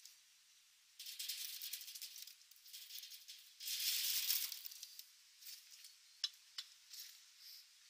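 Small birds moving about in an aviary: dry rustling and scratching, loudest in a burst midway, then a few sharp clicks and faint high chirps.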